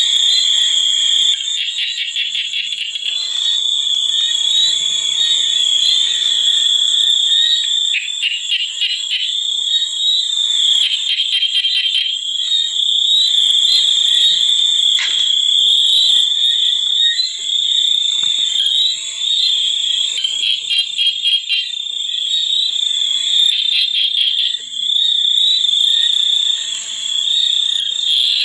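Chorus of frogs and insects: a steady high-pitched drone with rapid trilling calls coming and going over it.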